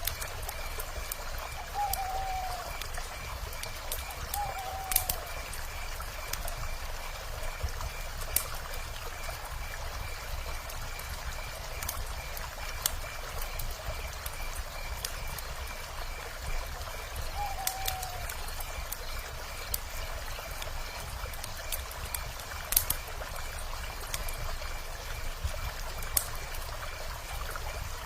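Campfire crackling with scattered sharp pops over the steady rush of a running river. A few short falling animal calls come in twice early on and once past the middle, and a faint, evenly repeating high chirp runs underneath.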